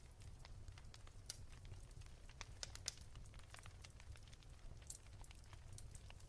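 Wood fire crackling softly: irregular small pops and snaps over a low steady rumble.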